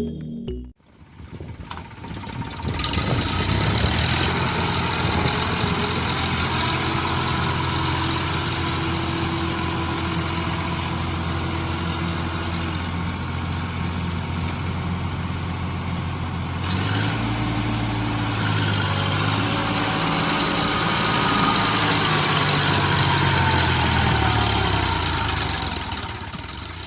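A tractor-type engine running steadily with a low drone. Its note shifts about two-thirds of the way through, and a faint whine glides down near the end.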